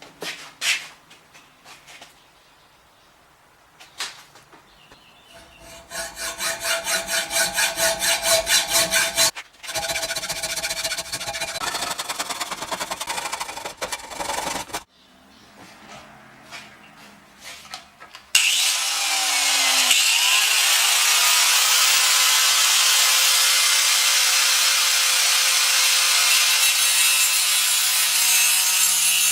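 Hand tool strokes rasping rapidly on a steel exhaust pipe for several seconds. About two-thirds of the way through, a power grinder starts up and grinds steadily on the pipe, cutting the traced notch for an H-pipe crossover.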